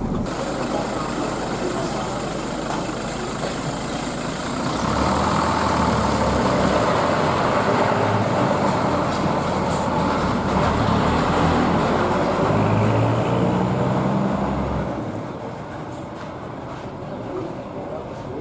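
Hino AK bus's diesel engine pulling under load, getting louder about five seconds in with its pitch shifting up and down several times, then easing off and going quieter about fifteen seconds in.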